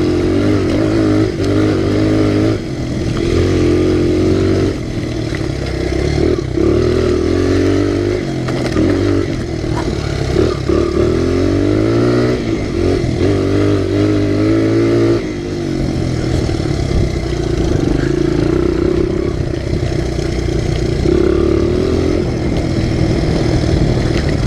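Honda XR100R pit bike's single-cylinder four-stroke engine under riding load, revving up and easing off again and again. After about 15 seconds it holds a steadier speed.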